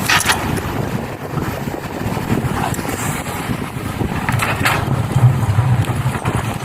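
Excavator engine running with a steady low rumble that grows louder about five seconds in. Brief clatters come near the start and again about four and a half seconds in.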